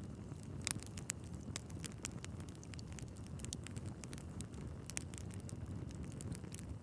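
Wood fire burning in a fireplace: a steady low rumble of flames with frequent small crackles and pops from the logs, two of them sharper, about a second in and near five seconds in.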